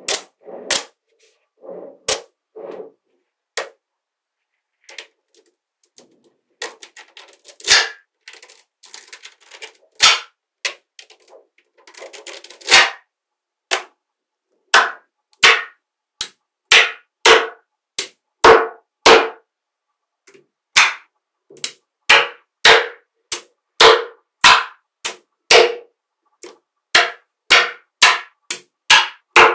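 Small magnetic balls snapping together one at a time, each a sharp click with a brief metallic ring. From about 6 to 13 seconds a looser rattle of balls shifting against each other. After that the snaps come steadily, a little more than one a second.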